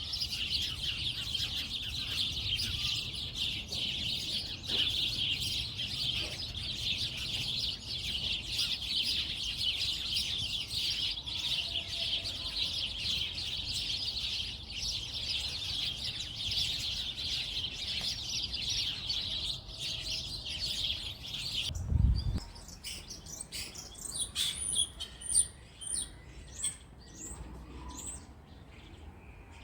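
A dense, continuous chorus of many small birds chirping together. About 22 seconds in it cuts off abruptly with a low thump, and sparser, higher single chirps follow.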